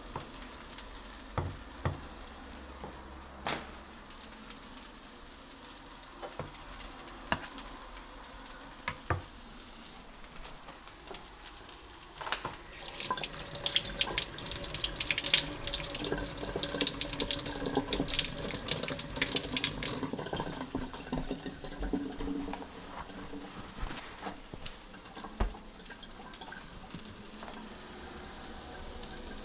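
Kitchen tap turned on about twelve seconds in, water running into the sink for about eight seconds, then stopping. Before and after it there are scattered light clicks and knocks.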